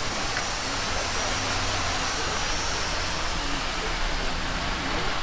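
A vehicle engine running steadily under a constant rushing outdoor noise.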